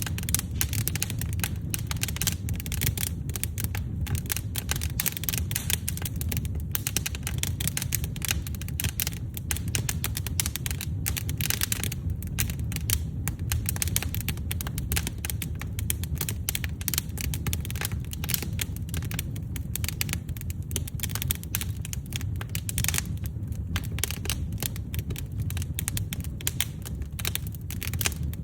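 Wood fire in a fireplace crackling and popping steadily over a low rumble of flames: dense, irregular snaps throughout.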